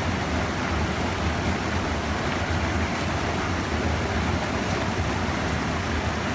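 Steady rushing of stream water spilling over a small check dam, an even roar with a deep rumble underneath.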